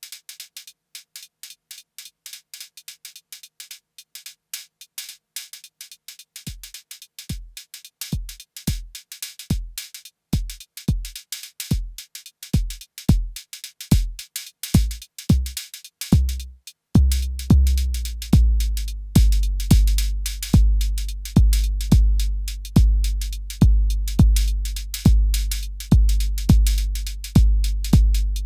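Arturia DrumBrute Impact analog drum machine playing a pattern that builds up. It opens with a fast run of high ticks alone; about six seconds in, a short low drum with a falling pitch joins at about two hits a second. A little past halfway, a loud low kick with a long ringing tail takes over, about once a second.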